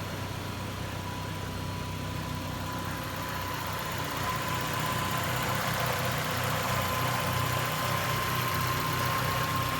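1991 Mercury Capri's four-cylinder engine idling steadily, a little louder from about four seconds in. A piece of the exhaust rattles, maybe a loose catalytic converter plate.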